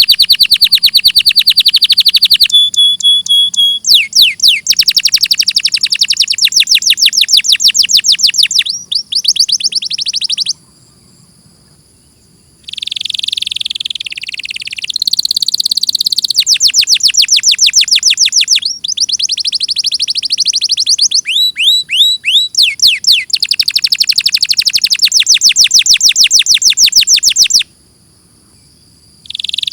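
Domestic canary singing a long, loud song of fast high trills and rolled phrases, changing from one trill type to the next. The song breaks off twice for about two seconds.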